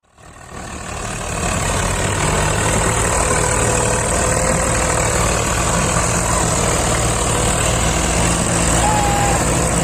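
Heavy diesel engine running steadily, fading in over the first second or so.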